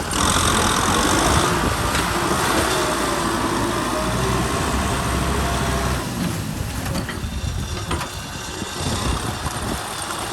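Kubota M6040 SU tractor's diesel engine running steadily while ploughing; it is louder for the first six seconds, then drops in level.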